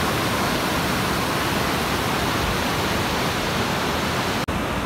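Steady rush of water from a waterfall, with a momentary break in the sound near the end.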